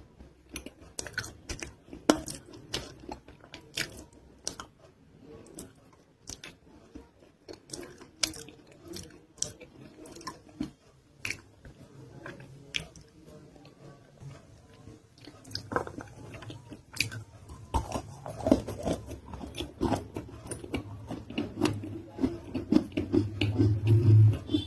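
Close-miked biting and chewing of a non-roasted nakumatt (edible clay) roll with a paste filling: many sharp little clicks and wet mouth sounds rather than loud crunches. The chewing grows denser and louder in the last several seconds.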